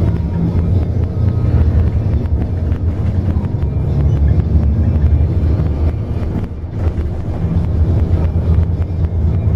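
Public bus in motion, heard from inside the cabin: a steady low engine and road rumble, briefly easing about six and a half seconds in.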